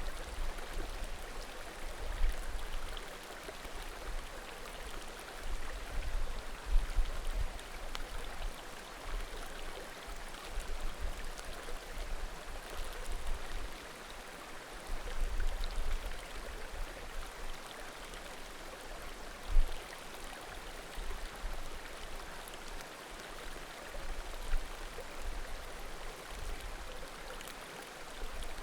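Small mountain creek babbling steadily, with faint occasional pops from a wood bonfire. Low thumps rise now and then beneath the water, loudest about seven seconds in and again near twenty seconds.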